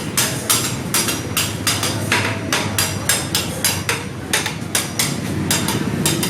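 Steady, rapid hammering, about three to four blows a second, over a low background rumble.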